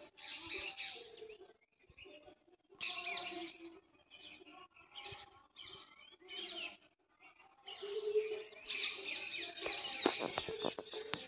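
Small birds chirping and calling in short bursts with brief pauses between them, and a few sharp clicks near the end.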